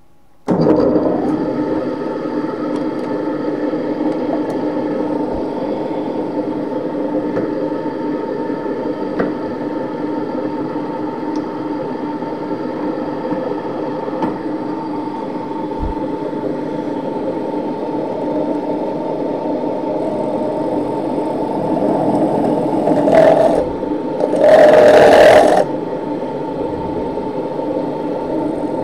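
Electric rotary power tool running steadily with a whir. Near the end it bites on the sheet-metal tin twice, briefly louder and scraping.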